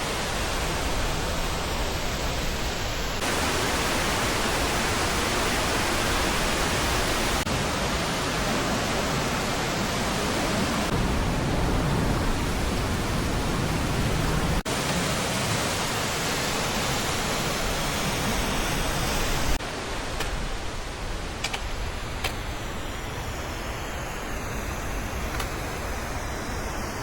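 Steady rush of falling water from a rocky mountain stream and its waterfalls, an even noise that shifts abruptly in level several times where the shots change.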